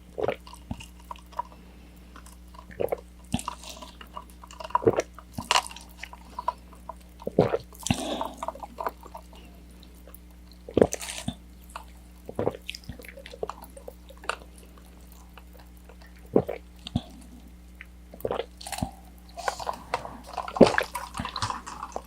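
Close-miked wet mouth sounds of someone eating orange chicken: irregular sharp clicks, smacks and chewing, with short quiet gaps between bites.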